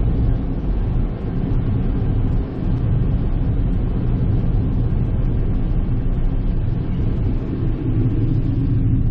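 A car driving at a steady speed: a continuous low engine and road rumble.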